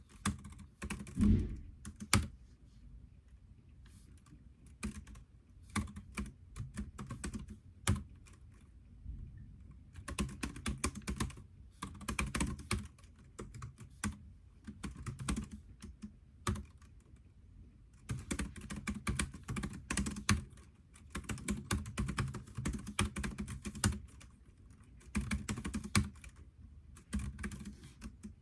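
Typing on a computer keyboard in runs of rapid keystrokes, broken by short pauses of a second or two several times.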